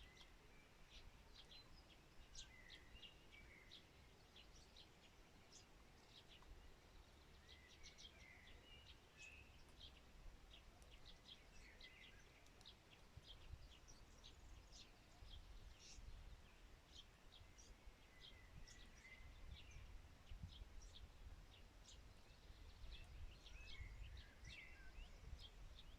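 Faint birdsong: many short, high chirps throughout, with a softer song phrase returning every five or six seconds, over a low rumble that grows stronger in the second half.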